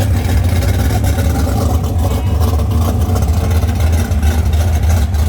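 Car engines idling, a loud, steady low rumble with no revving.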